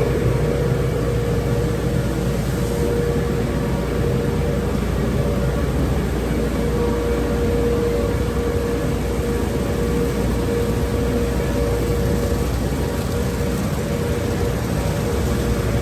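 Automatic car wash tunnel equipment running steadily: an even, loud rush with a constant mid-pitched whine.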